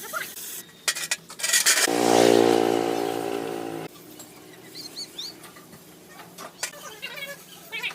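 A few sharp clicks, then a car engine running steadily for about two seconds before cutting off abruptly.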